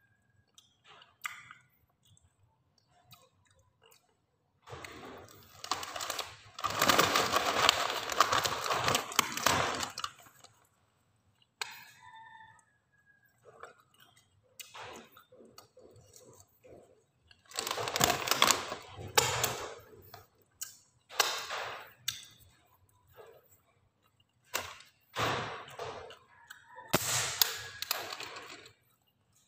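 Close-up crunching on crisp vegetable-flavoured rice cracker sticks, mixed with the crinkling of a foil snack bag, in irregular bursts. The longest and loudest burst comes about a fifth of the way in, with shorter ones later.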